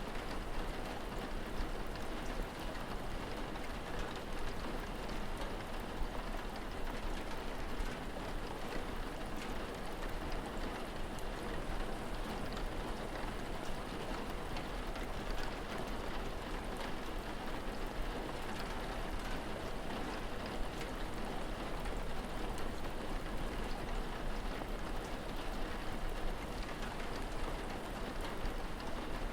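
Steady rain falling, with a dense patter of small drop ticks and a constant low rumble underneath.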